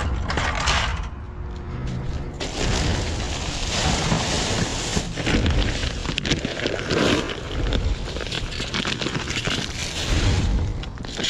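Rummaging through a dumpster: rustling, crinkling and knocking of bags and discarded items being handled, over a steady low rumble.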